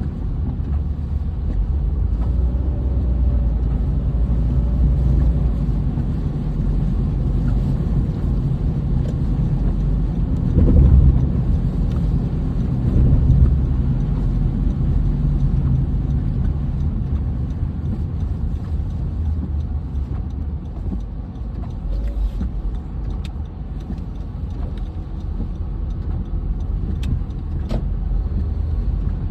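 Steady low road and engine rumble of a car on the move, swelling briefly twice midway, with a few sharp ticks near the end.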